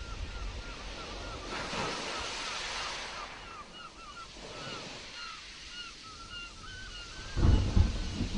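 Sea waves surging and breaking in a storm, one wave washing in strongly about two seconds in, while a bird calls over and over in quick short chirps. A loud, deep rumble comes near the end.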